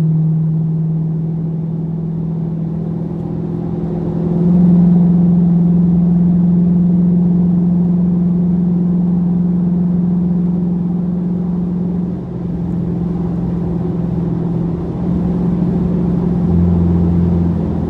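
Car engine running at steady revs while driving, a low drone that steps up in pitch about four and a half seconds in and shifts a few more times, with a deeper hum joining near the end.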